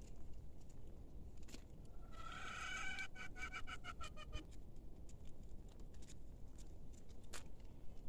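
A bird calling about two seconds in: a held note that breaks into a rapid trill of about seven pulses a second, stopping after about two and a half seconds, over a steady low rumble and a few faint clicks.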